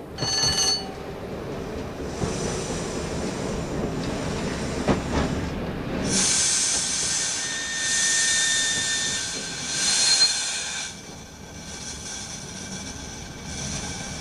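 Class 117 diesel multiple unit heard from the driver's cab, running with a steady rumble, with a brief high squeal right at the start. From about six seconds in a high-pitched metallic squeal and hiss holds for some four seconds, then dies away.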